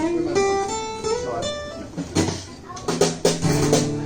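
Acoustic guitar played live: single picked notes at first, then strummed chords from about halfway through, ending on a ringing chord.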